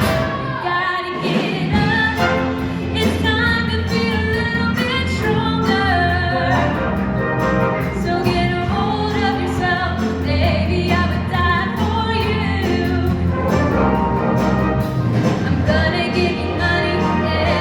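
A show choir singing with a backing band: many voices in close harmony over a steady bass line.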